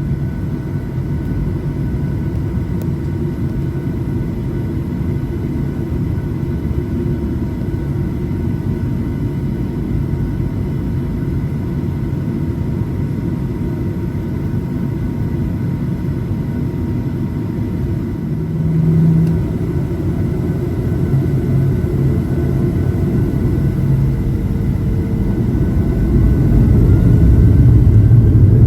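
Cabin noise inside a Boeing 737-800 airliner: a steady low rumble of its CFM56 engines with faint high whining tones, growing louder over the last several seconds with a rising whine as engine power comes up.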